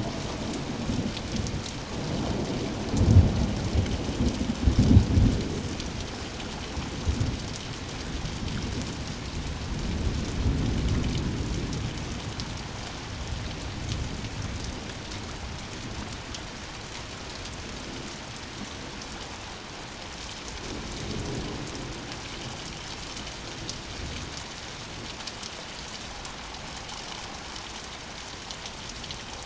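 Steady rain falling, with rolls of thunder rumbling through the first half, the loudest a few seconds in, then easing to rain alone.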